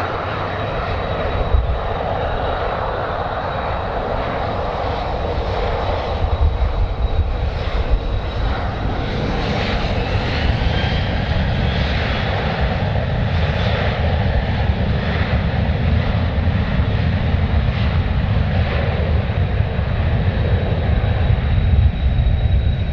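Jet airliner engines running loud and steady, a deep rumble with a thin high steady tone above it.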